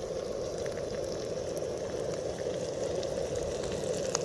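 Onion, pepper and sausage frying in oil in a pan: a steady sizzle with small scattered pops and crackles.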